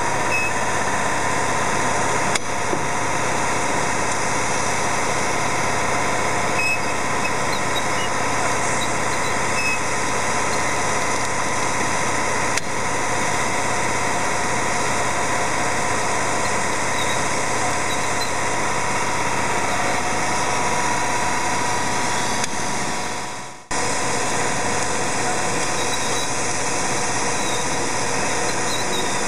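1997 Omori S-5710U-BX-DF reverse pillow packaging machine running with a steady mechanical hum and a faint steady tone, with a few light clicks. The sound fades and then comes back abruptly about 23 seconds in.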